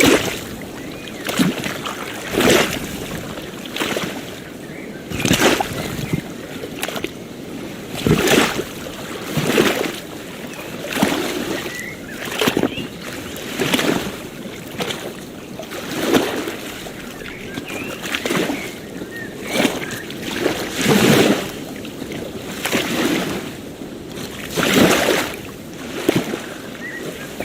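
Small waves lapping at the water's edge: a steady wash with a short splash about every one and a half seconds, in a regular rhythm.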